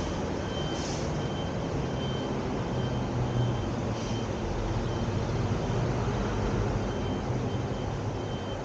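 Steady road and engine noise of a car driving in city traffic, with a faint high beep repeating about twice a second.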